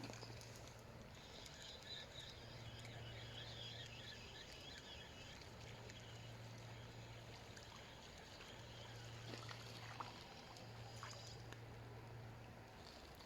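Faint outdoor ambience: a bird twittering high in the first few seconds over a low hum that comes and goes, with a few faint clicks.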